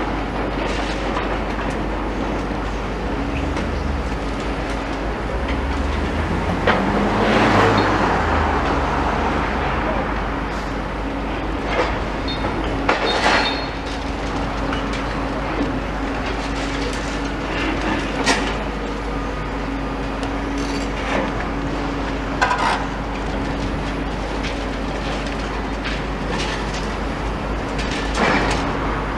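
Demolition excavator working: a steady engine drone with a faint held tone, a louder swell about seven seconds in, and scattered sharp knocks and clatter of rubble.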